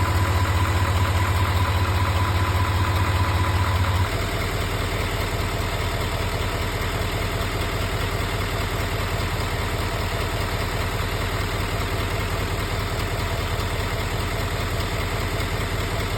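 L5P Duramax 6.6-litre V8 turbo-diesel idling, with a fast, even ticking that is the noise the owner is recording. About four seconds in the deep rumble and a steady high tone drop away and the engine gets quieter.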